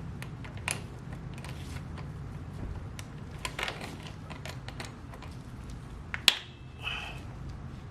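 Scattered light clicks and metal taps of hand tools working on motorcycle engine parts, with one sharper metallic clink that rings briefly about six seconds in, over a low steady hum.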